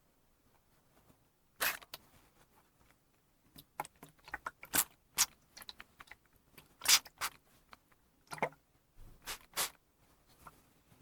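Hand spray bottle (mister) being pumped: short hissing sprays at irregular intervals, some in quick succession.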